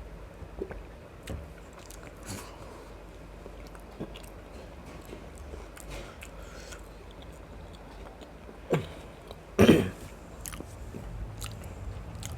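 A person chewing and eating biryani with mutton gravy close to the microphone: soft chewing and small mouth clicks, with two louder short bursts about nine and ten seconds in.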